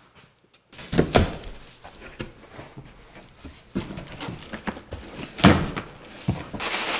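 A few knocks and clunks amid handling noise, the loudest about a second in and about five and a half seconds in.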